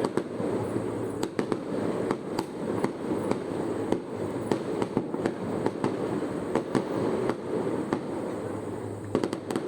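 Fireworks display going off: a continuous, irregular run of bangs and crackles, many close together.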